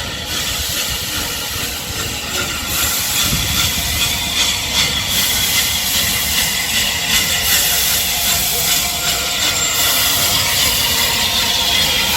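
Steam locomotive with steam hissing, a steady rushing noise that grows a little louder over the first few seconds.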